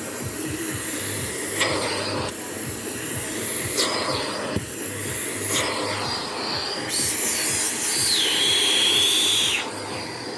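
Vacuum cleaner running as its nozzle is worked over upholstered cinema seats, with a few short scraping knocks; near the end a high whistle holds for about two seconds.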